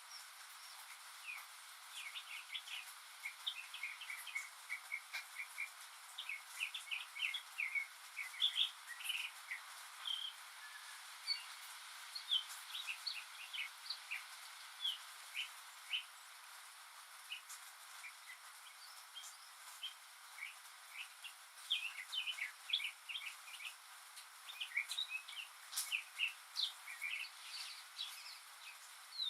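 Northern mockingbird singing: a varied string of short chirps and quick repeated phrases, with a pause of a few seconds in the middle, over a steady background hiss.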